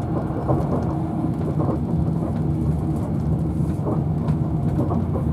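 Cabin noise inside a Virgin Trains Class 390 Pendolino running at high speed: a steady rumble of wheels on rail with a low hum under it, and scattered short clicks and knocks.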